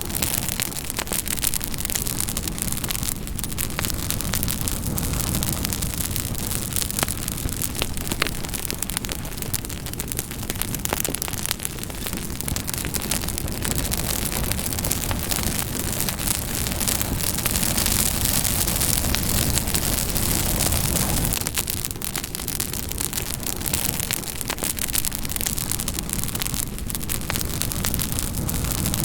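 Campfire crackling: a steady hiss of burning wood with frequent sharp pops and snaps.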